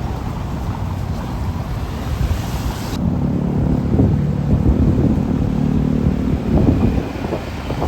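Roadside traffic: a heavy vehicle's engine runs loudly past from about three seconds in and fades near the end, over a low rumble with wind buffeting the microphone.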